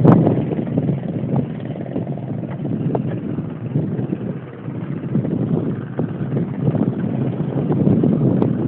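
Wind buffeting the microphone of a camera riding on a mountain bike, with scattered clicks and rattles from the bike rolling over rough trail.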